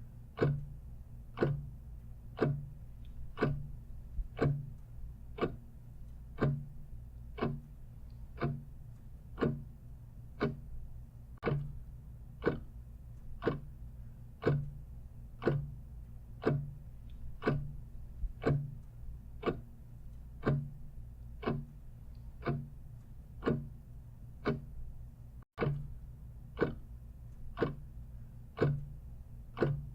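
Clock ticking steadily at about two ticks a second, every other tick with a deeper knock, giving an even tick-tock.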